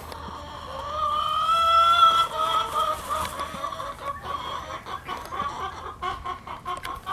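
Chickens calling: one long, slightly rising squawk lasting about a second and a half, then a quick run of short clucks.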